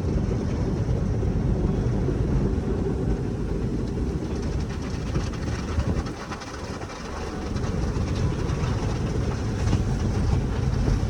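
Automatic car wash working over a car, heard from inside the cabin: a steady, dense wash of water spray and machinery noise that eases briefly about six seconds in, then comes back.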